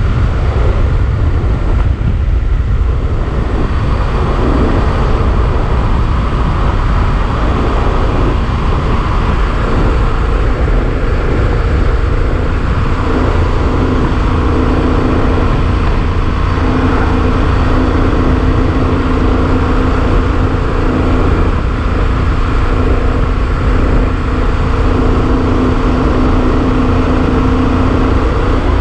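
Motorcycle cruising at speed: heavy wind rumble on the camera microphone over the steady drone of a Yamaha XT1200Z Super Ténéré's parallel-twin engine. The engine note is steadier and clearer from about halfway through.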